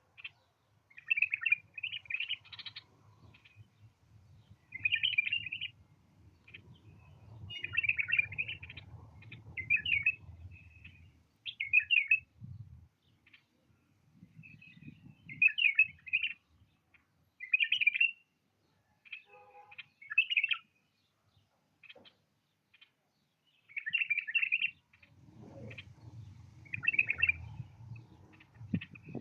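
White-eared bulbul singing a string of short chirpy phrases, about a dozen, one to two seconds apart, with a low rumble underneath at times.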